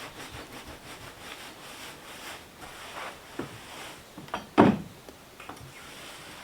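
Gear being handled: soft rustling and light knocks, with one loud thump a little past halfway.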